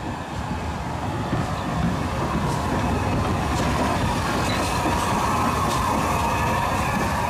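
Steam-hauled heritage train passing, its carriage wheels clicking over rail joints with a steady high wheel squeal that dips and rises in pitch, the running noise building over the first couple of seconds.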